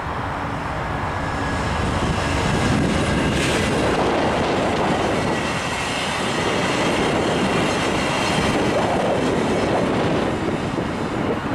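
VIA Rail passenger train rolling along the track, a loud steady rumble of wheels on rails with a faint high-pitched squeal running through it.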